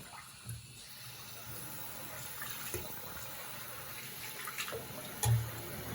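Tap water running into a sink and over a puppy being rinsed, a steady hiss. A short low thump about five seconds in.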